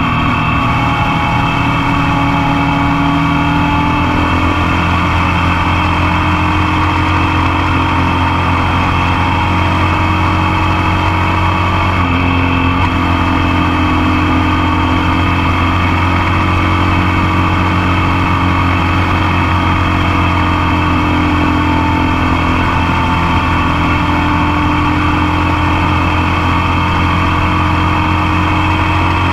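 Motorcycle engine running steadily while riding, picked up close from the passenger foot peg, with a small shift in engine pitch about twelve seconds in.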